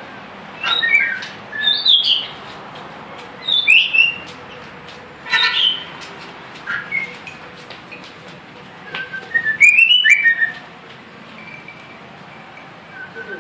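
A murai songbird singing short whistled phrases of quick sweeping notes, with pauses of a second or more between them.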